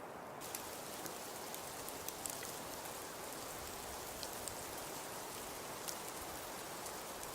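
Crackling fireplace: a steady hiss with scattered sharp pops and snaps. The upper hiss gets brighter about half a second in.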